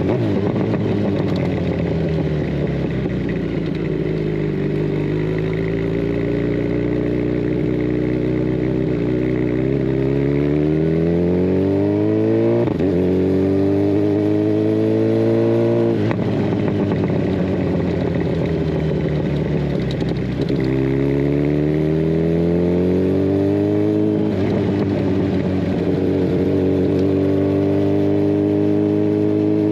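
Kawasaki Ninja 1000SX inline-four engine running through a decat Scorpion Red Power exhaust while riding: the pitch eases down, holds steady, then climbs as the bike accelerates, dropping sharply at each gear change, about four times.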